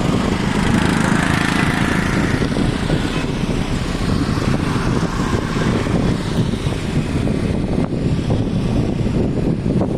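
A car engine running steadily, a dense low rumble with no sharp events.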